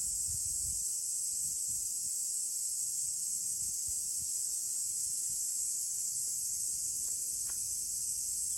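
A steady high-pitched hiss, even and unbroken, with a few faint low thumps in the first second.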